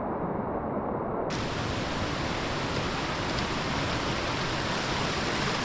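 Steady rushing of a waterfall, an even hiss of falling water that turns suddenly brighter and hissier about a second in.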